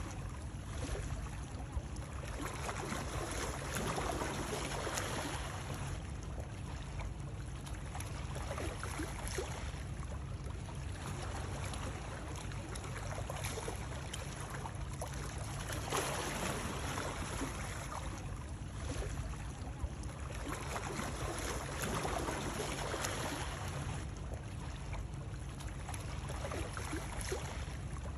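Flowing water with a continuous rushing hiss that swells and eases every few seconds, over a steady low rumble.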